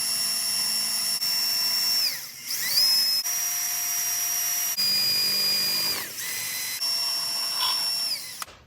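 Power drill running at high speed, spinning a square mesquite stick through a hole in a scrap metal plate so the plate shaves it round into a dowel. The steady motor whine winds down and starts up again twice and stops near the end.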